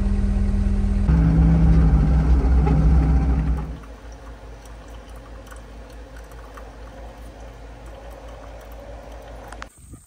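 Vehicle engine running steadily. It grows louder about a second in, then drops sharply to a low, steady hum a little before four seconds in, and cuts off abruptly near the end.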